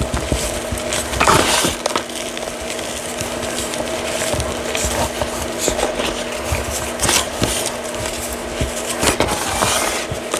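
Reformed gritty chalk crunching and crumbling as it is crushed, in irregular crunches. Under it runs a steady background hum.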